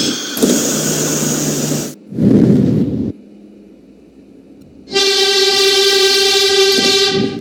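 Subway train horn sounding one steady blast of about two and a half seconds, starting about five seconds in and cutting off near the end. Before it, a couple of seconds of loud rushing train noise and a short low rumbling burst.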